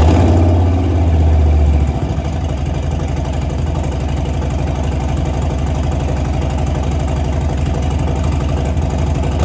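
Harley-Davidson Milwaukee-Eight 107 V-twin idling through a Bassani Road Rage III 2-into-1 exhaust with a short megaphone, just after start-up. It is a little louder for the first two seconds, then settles to a steady idle.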